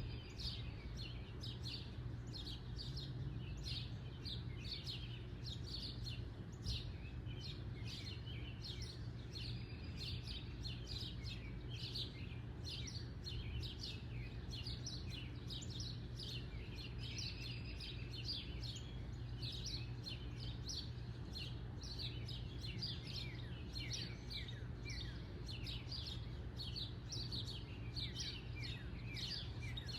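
Backyard birds chirping in a dense, continuous chorus of short, high, quickly falling chirps, over a steady low hum.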